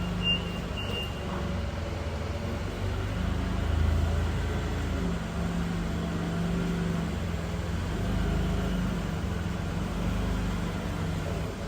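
Forklift engine running as the machine moves a load, its pitch rising and falling. Its reversing beeper sounds a few quick beeps in the first second.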